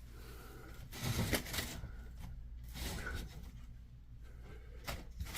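Quiet room tone with faint, irregular rustling and a few light knocks, as of things being handled.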